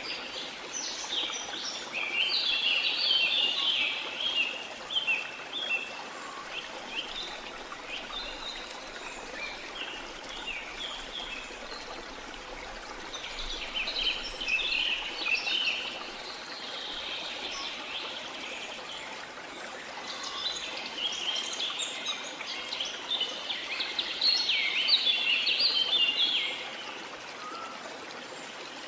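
Steady rush of running water with birds singing over it in quick chirping phrases, which swell a couple of seconds in, around the middle, and again near the end.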